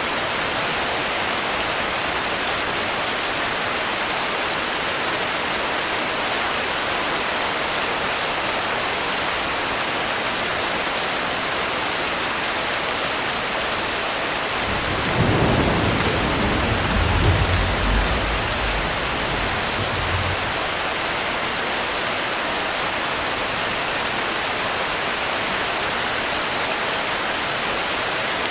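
Steady rain falling, with a roll of thunder rumbling deep and low for about six seconds around the middle.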